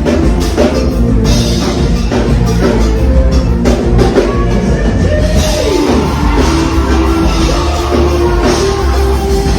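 A forró band playing live at a soundcheck, loud, with drum kit, heavy bass and held melodic notes.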